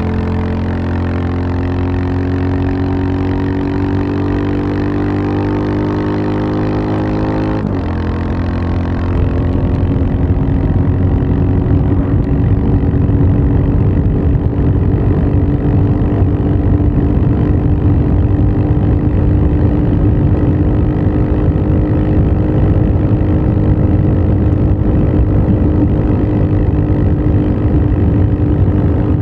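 Royal Enfield Bullet 350 single-cylinder engine running, its pitch climbing slowly. About eight seconds in the pitch drops suddenly with a short click, and then the engine runs louder and rougher, rising slowly again.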